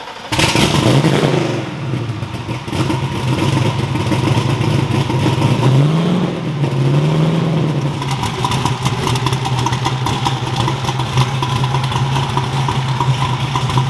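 Twin-turbo Ford 7.3L Godzilla V8 catching just after a start and settling into a steady idle. The revs rise briefly about a second in and twice more around the middle.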